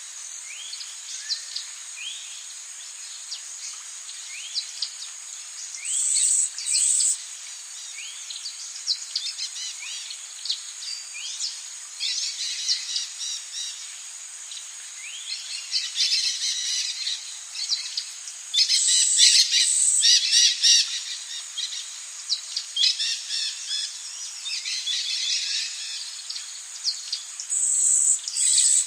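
Rainforest ambience: a steady high-pitched insect drone under many birds calling, with short rising chirps repeated throughout and several louder bursts of rapid calls.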